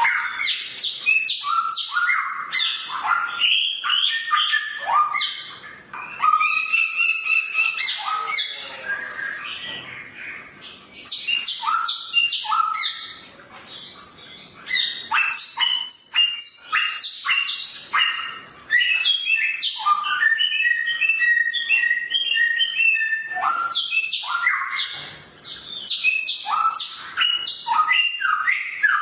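A samyong songbird singing fast, sharp, varied chatter of short high notes, with a few brief pauses between runs.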